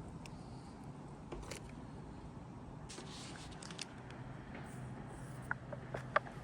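Footsteps of a person walking, with light irregular taps and a short scuff about halfway through, over a low steady hum.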